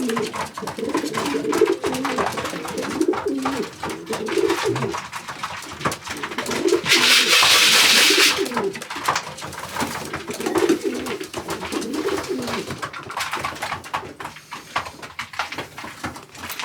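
Several domestic pigeons cooing repeatedly in a small loft, with a loud burst of noise lasting about a second around seven seconds in.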